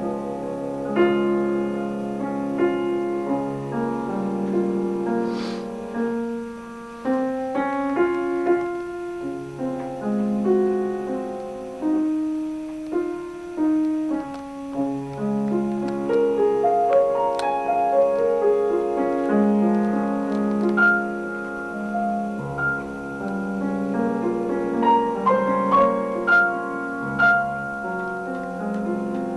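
Piano playing a melody over held chords.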